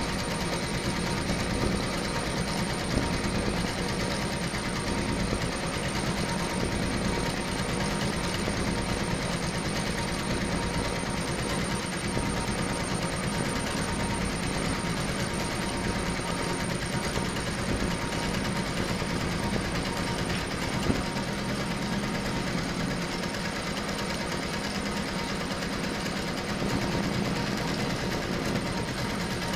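HSW 12-needle high-speed embroidery machine running and stitching, a steady, rapid mechanical clatter.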